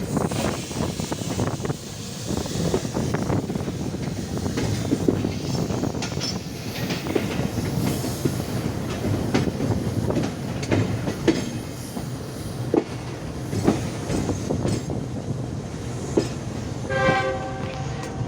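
Passenger train rolling slowly into the station: a continuous rumble of wheels on rails with irregular clicking as the wheels cross rail joints. A brief pitched tone sounds near the end.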